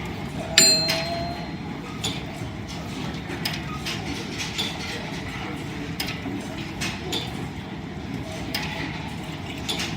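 Line-shaft-driven wood lathe running with a steady rumble and a light, irregular clicking. About half a second in there is one sharp metallic clink that rings briefly.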